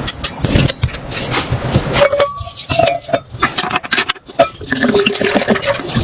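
Metal camping gear being handled: a string of clinks and knocks, with a few short ringing tones like pots or utensils touching.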